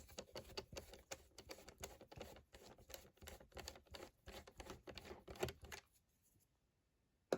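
Faint, rapid, irregular clicking of a Torx T10 screwdriver backing a small screw out of an iMac's speaker box, stopping about six seconds in.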